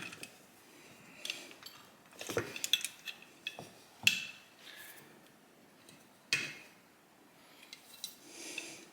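Small metal carburetor parts being handled and set down, giving a series of separate clinks and taps with a short ring, the sharpest about four seconds in and another about six seconds in.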